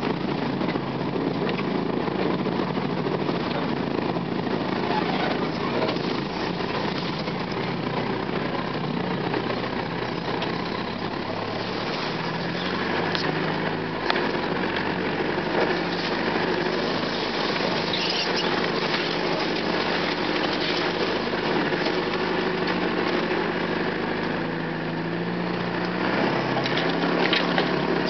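Land Rover engine running as it crawls along in low gear, its note stepping up and down a few times, with occasional short snaps and scrapes of branches against the vehicle.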